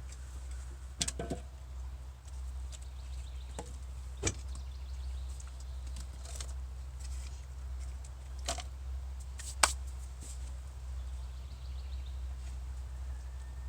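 A handful of sharp, scattered clicks and knocks from dry sticks and a metal fire basin being handled, over a steady low hum.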